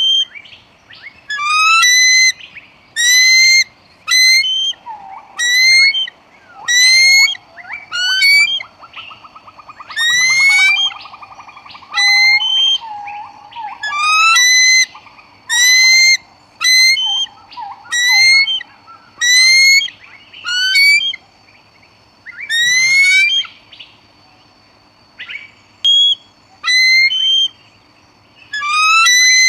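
An eagle calling over and over: loud, shrill calls that each rise in pitch, repeated every second or two with short pauses. A fainter, lower trilling call sounds under them for a few seconds early on.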